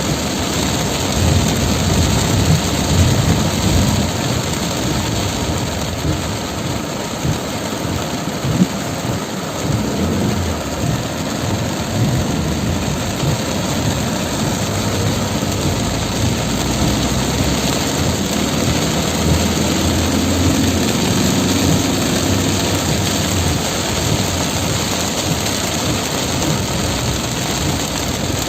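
Heavy rain pouring down, with a vehicle engine running underneath as a steady low rumble.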